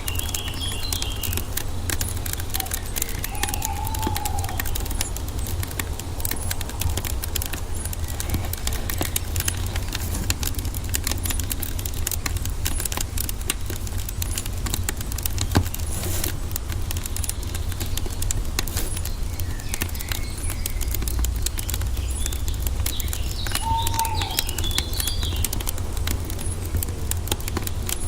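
Wood fire crackling steadily with many small pops over a low rumble, while birds chirp a few times, near the start and again near the end.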